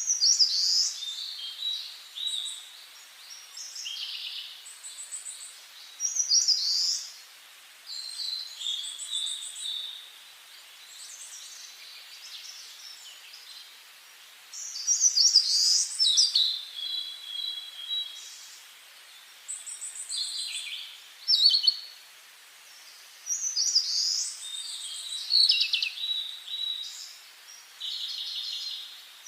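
Songbirds singing: a string of short phrases of varied whistles and trills, with brief pauses between them.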